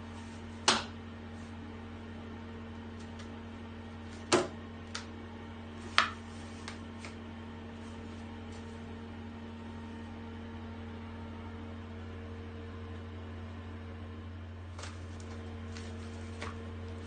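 A steady low machine hum, like a fan or small motor running, with three sharp clicks or knocks at about one, four and six seconds in and a few fainter ticks after.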